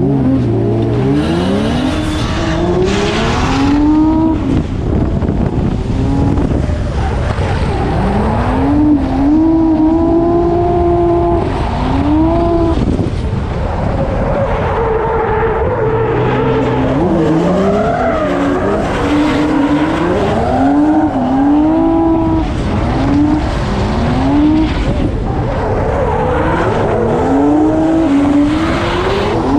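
Drift car engine revving hard, its pitch climbing and dropping over and over with throttle and gear changes, at times held flat near the top for a second or so.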